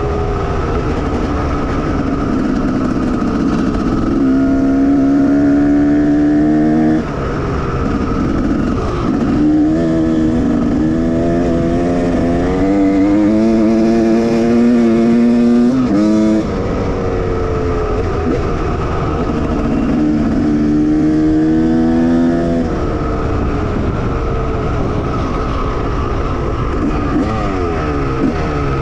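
1989 Honda CR250R two-stroke single-cylinder motocross engine being ridden hard. It pulls up through the revs in three long runs, its pitch climbing each time, and each run ends with an abrupt cut as the throttle is shut, with lower running in between.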